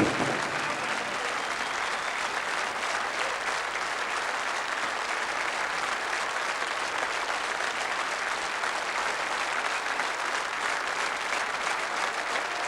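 Audience applauding steadily, with one brief sharp knock at the very start.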